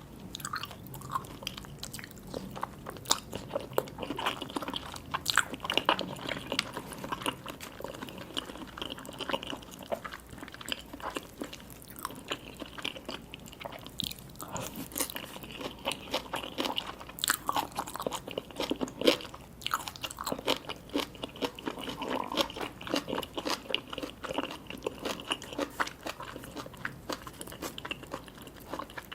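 Close-up eating sounds: a person biting and chewing sushi and seafood, with many sharp, irregular crunches and wet chewing.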